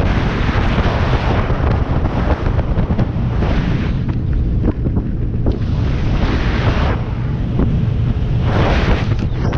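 Christina 25 motorboat running at speed: a steady low engine rumble under wind buffeting the microphone and the rush of water along the hull, which surges several times.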